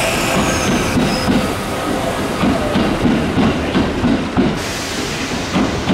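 Electric commuter train running along the platform, its wheels clattering over rail joints in a steady rhythm of about two to three beats a second that grows plainer a couple of seconds in.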